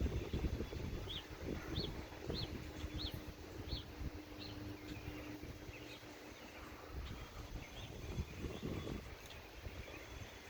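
A bird giving a series of short, high chirps, about two a second, that pause midway and then resume with a few more, over a low rumbling background noise.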